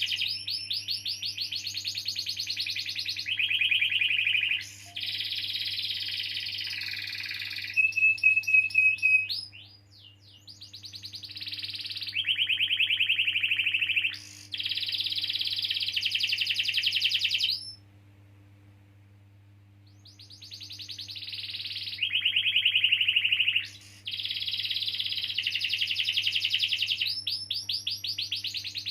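Domestic canary singing long rolling trills: blocks of very fast repeated notes, changing from one trill type to the next every few seconds, with a pause of about two seconds just before halfway. A faint steady low hum runs underneath.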